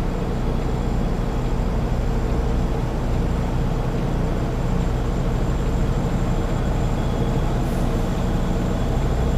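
Semi-truck's diesel engine running steadily at low revs, heard from inside the cab while the tractor-trailer reverses slowly.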